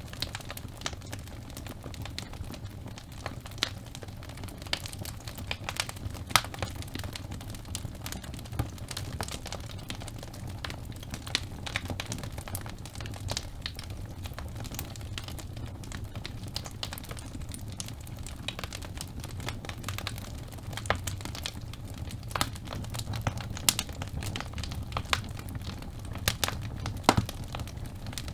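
Logs burning in a fireplace: a steady low rumble of flame with irregular sharp crackles and pops from the burning wood.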